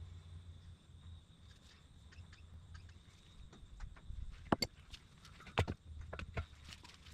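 A scatter of light clicks and knocks, with two sharper ones past the middle, over a faint low hum.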